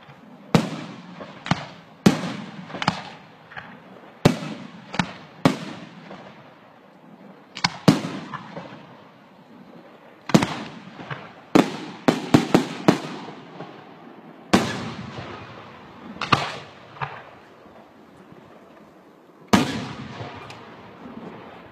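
A fireworks display going off: a long run of sharp bangs at uneven intervals, each trailing away, with a quick cluster of several bangs about halfway through.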